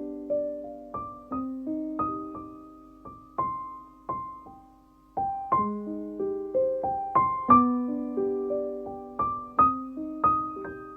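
Background music: a gentle solo piano melody of single notes, each struck and fading away.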